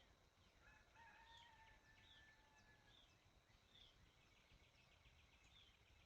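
Near silence with faint birdsong: short chirps repeating through, a faint held call lasting about two seconds starting near the first second, and a quick trill of rapid notes about two-thirds of the way through.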